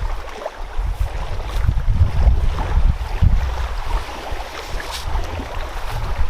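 Wind blowing across the microphone, a low rumble that rises and falls in gusts.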